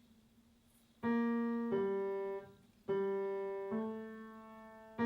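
Slow background piano music: after about a second of silence, single notes sound one after another, each struck and left to fade.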